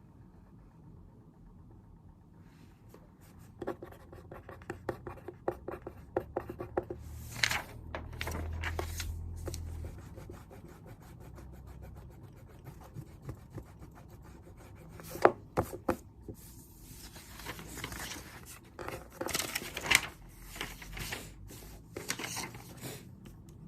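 Pen writing on paper at a desk: a run of small taps and strokes a few seconds in, then louder scratching and rustling stretches of writing and paper handling.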